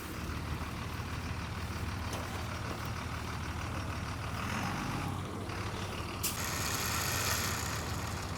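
Truck engine idling steadily, with a hiss that starts suddenly about six seconds in and lasts a second or two.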